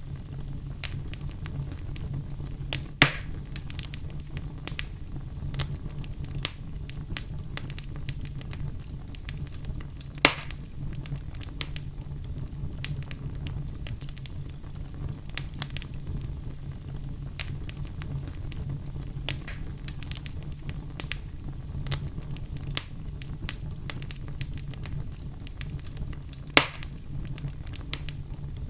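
Wood fire burning in a fireplace, crackling with many small snaps over a steady low rumble, with three louder pops spread through.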